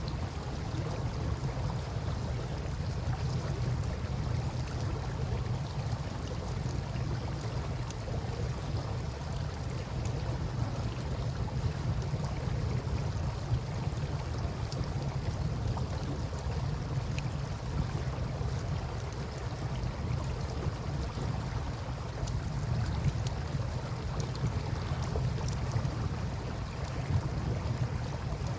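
Steady wash of river water, with faint scattered crackles from a wood campfire.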